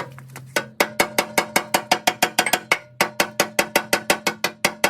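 A hammer striking the steel of a finish mower deck in a rapid, steady series of blows, about five a second, each with a metallic ring.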